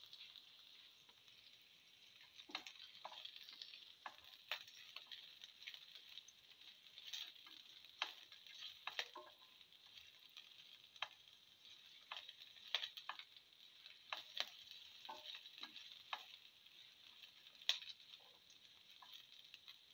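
Shallots and garlic sautéing in oil in a pan: a faint steady sizzle, broken by irregular scrapes and taps of a slotted spatula stirring them against the pan.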